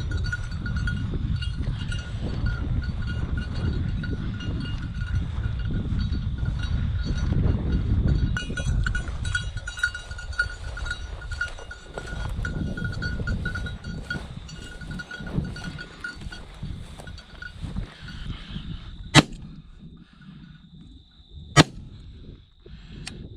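A bird dog's bell jingling steadily over wind rumble, falling quiet near the end, followed by two loud shotgun shots about two and a half seconds apart, fired at flushed upland birds.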